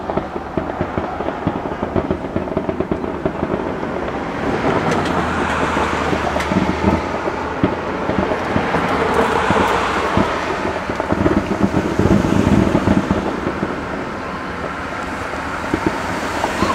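Fireworks barrage: a rapid run of bangs from many shells bursting, thickening about four seconds in into a continuous crackle and rumble.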